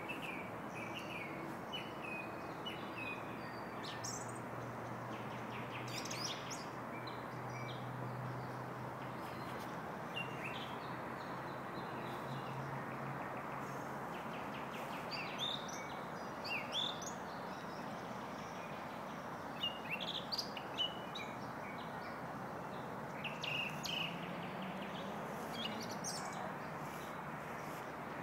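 Small birds chirping and calling in short scattered notes, over a steady background rumble.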